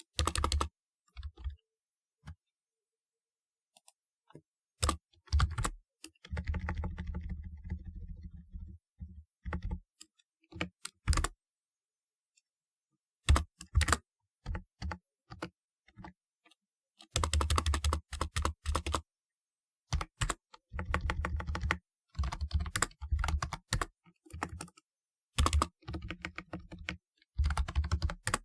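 Typewriter-style keyboard being typed on in irregular runs of rapid clicking keystrokes, some runs with a heavier thud under the clicks. Silent pauses of a second or two fall between the runs.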